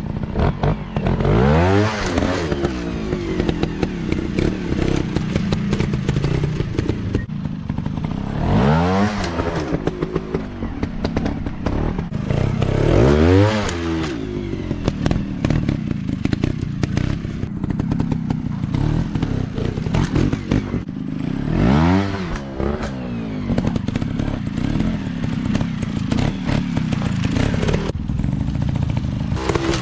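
Small dirt-bike engines running, with a sharp rev that rises and falls in pitch about five times, every several seconds, over a constant engine drone and some clattering.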